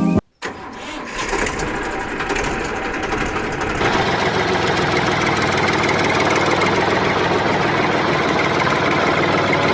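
Mini tractor engine running, getting louder over the first few seconds and then holding steady.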